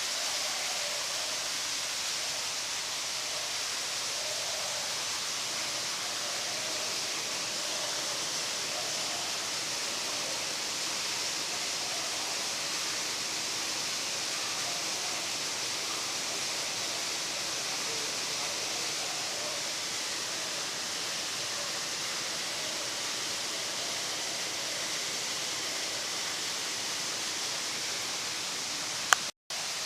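Steady rushing noise, like running water, from the aquarium's ambience. A sharp click near the end is followed by a brief cutout.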